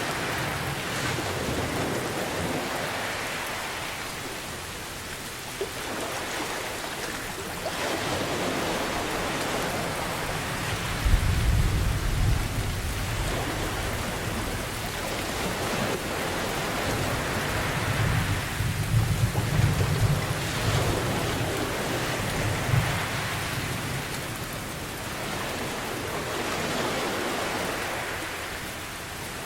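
Steady heavy rain over ocean waves that swell and ease every several seconds, with low rolls of thunder about eleven seconds in and again for several seconds past the middle.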